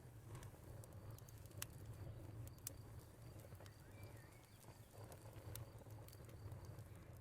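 Wood fire crackling quietly, with scattered sharp pops over a low steady rumble. A bird gives a brief chirp about four seconds in, and a cricket chirps faintly in the background.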